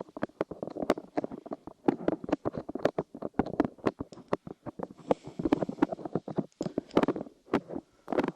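Light clay squished and pressed on and in the microphone's ears, making a dense sticky crackle broken by many quick sharp clicks.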